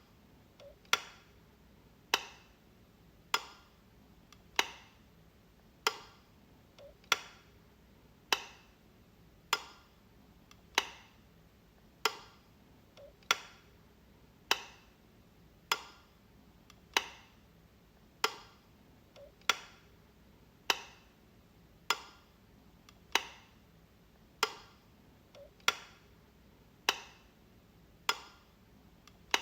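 Light switch flicked over and over: a sharp click a little less than once a second, each dying away quickly, with a fainter small click slipped between two of them every few seconds.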